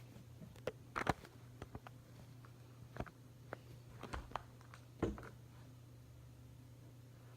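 Scattered light clicks and taps of close hand handling, about a dozen irregular ones with the firmest about a second in and again about five seconds in, over a low steady hum.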